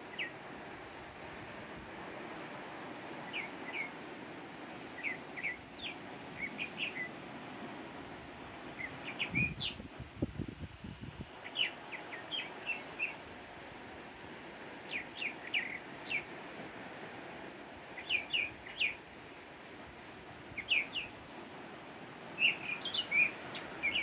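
Small birds chirping in short, quick notes, in clusters of two to four every second or two, over a steady background hiss. A brief low rumble about ten seconds in.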